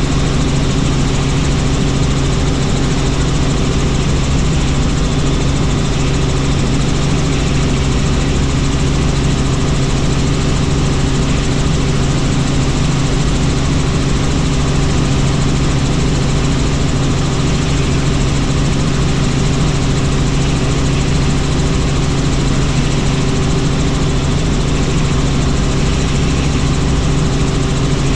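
Helicopter in flight, its rotor and turbine engine running at a steady, unchanging drone with a low hum under a wide hiss.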